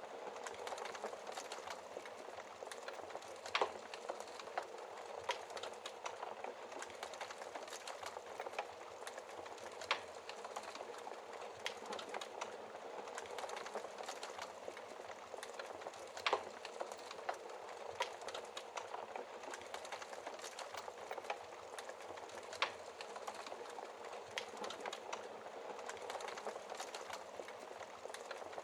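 Wood fire burning in a fireplace: a steady fine crackle of burning logs, broken by a few louder sharp pops, about one every six seconds.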